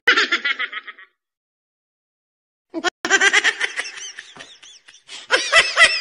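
Laughter sound effects played one after another: a quick, high-pitched laugh that stops about a second in, a short silence, then a new laugh with rapid ha-ha pulses that fades out, followed by a louder laugh near the end.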